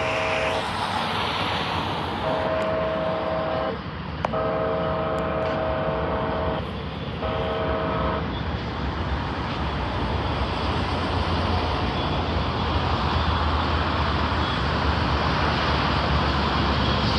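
Diesel locomotive's multi-chime air horn sounding four blasts, short, long, long and short, over the first eight seconds, over the steady rumble of a passing freight train. The rumble carries on after the horn stops and gets heavier at the low end.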